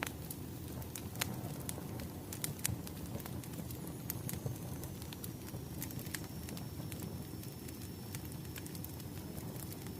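Wood fire burning, with a steady low rumble and scattered sharp crackles and pops. A faint thin high whistle, typical of hissing sap in burning wood, runs from about four seconds in.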